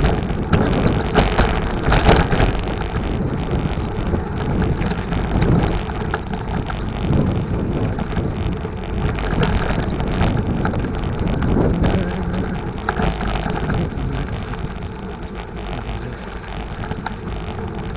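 Wind buffeting the microphone of a bicycle ride, with tyre noise and scattered knocks and rattles as the bicycle rolls over an unpaved dirt road.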